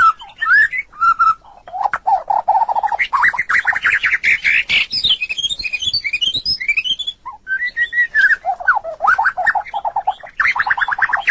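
White-rumped shama singing: a varied, loud song of fast trills and quick rising whistled notes, phrase after phrase with only brief pauses.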